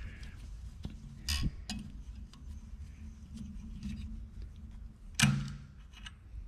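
Small metal parts clinking and knocking as they are worked off a bolt, with one louder metallic clank about five seconds in that rings briefly.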